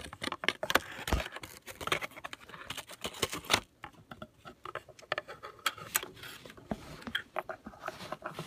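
Irregular scratching, tapping and rustling, busy for the first three and a half seconds and then thinning to scattered clicks.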